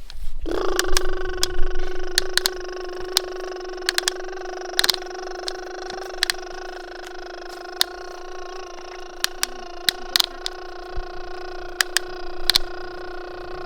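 A small motor starts about half a second in and runs with a steady, unchanging whine, with irregular sharp clicks on top throughout.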